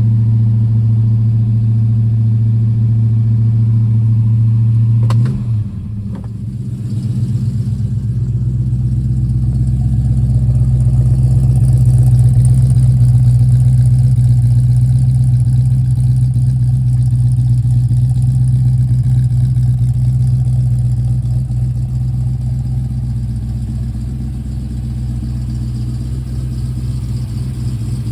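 1969 Ford Mustang engine idling fast just after a cold start. About five seconds in there is a short click, the idle drops to a lower pitch with a steady pulse, and it runs on evenly, swelling slightly and easing off again.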